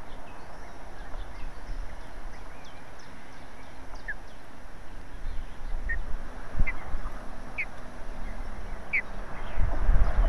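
Short, high bird chirps, single notes a second or so apart and clearer in the second half, over a steady hiss of wind on the microphone that swells into a low rumble near the end.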